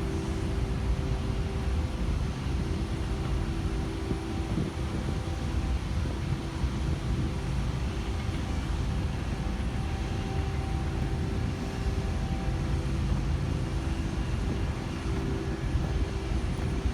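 Steady vehicle engine and road rumble, with a faint constant hum running through it.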